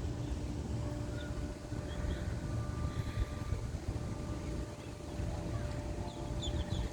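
Wind rumbling on the microphone outdoors, with a faint steady hum behind it and a few faint high chirps near the end.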